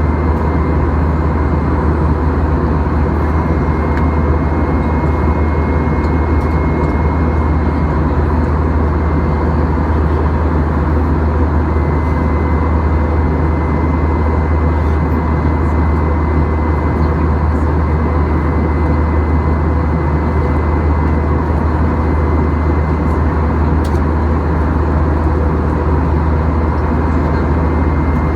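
Steady cabin noise of a Boeing 737-800 in flight: a loud, even rumble of its CFM56 jet engines and the airflow over the fuselage, with a faint steady high whine above it.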